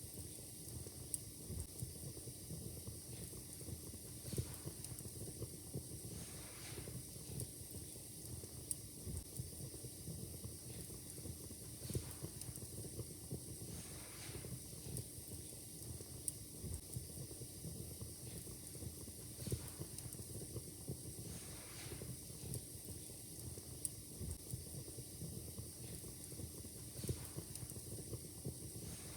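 Fireplace fire crackling, with frequent sharp irregular pops over a steady hiss.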